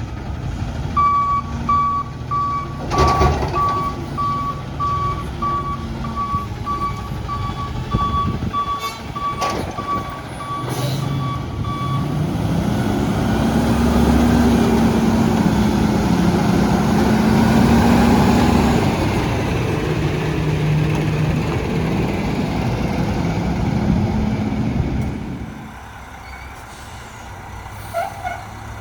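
Front-loader garbage truck backing up, its reverse alarm beeping steadily, with a few sharp knocks. About twelve seconds in, the beeping stops and the diesel engine revs up and holds high for several seconds, as it does to drive the lift hydraulics, then drops back and goes quieter near the end.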